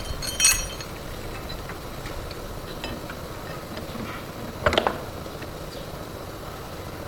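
Two metal clinks about four seconds apart, as tools or steel parts knock together; the first rings briefly. A low, steady rumble runs underneath.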